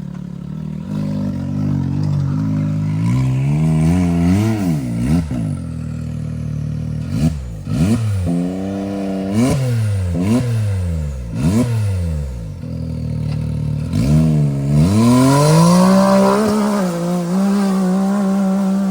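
Side-by-side UTV engine revved hard in repeated bursts, its pitch rising and falling again and again, then climbing and held at high revs near the end as the machine claws up a hill. Knocks, scraping and clatter from the machine working over rough ground come through the revving.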